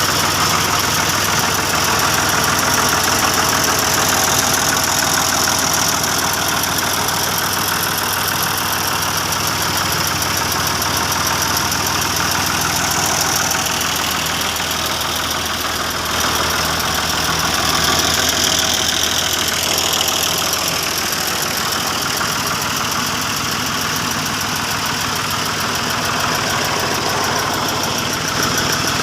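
Tractor diesel engine idling steadily, with a knocking, chugging running note.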